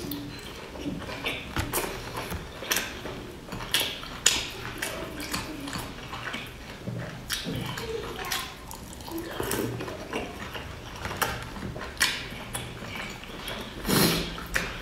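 Close-miked wet chewing and mouth sounds of eating dumplings, with irregular smacks and clicks, and chopsticks clinking against a glass dipping bowl.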